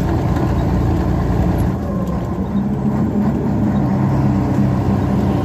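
Truck engine running steadily, a low hum that settles onto a steadier pitch about halfway through.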